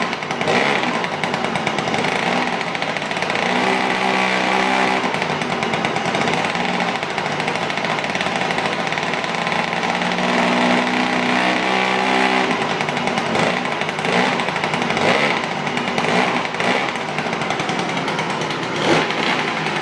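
SYM Jet 100 scooter's small two-stroke engine running loud and raspy through an aftermarket JCC exhaust. The revs vary, holding steady for a couple of seconds twice.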